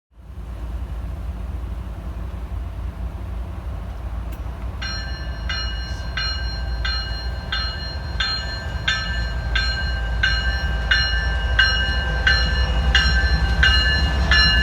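Approaching diesel freight train, its low rumble growing steadily louder. From about five seconds in, a level-crossing warning bell rings over it about three times a second.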